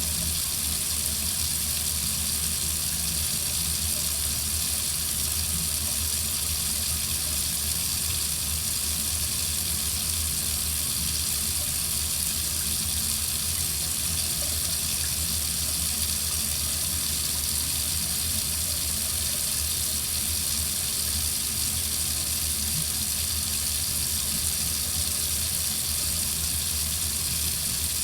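Water running steadily from a tap into a sink, an even hiss that does not change.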